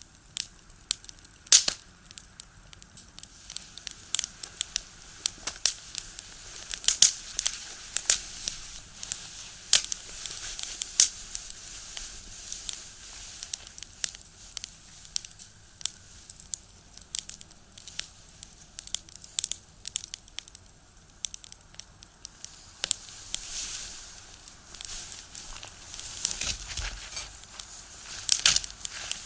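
Firewood burning in a small box stove, crackling with many sharp, irregular pops over a soft hiss that swells now and then.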